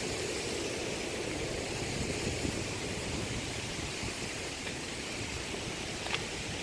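Steady rushing water from a creek waterfall in spring flow, an even hiss with no breaks.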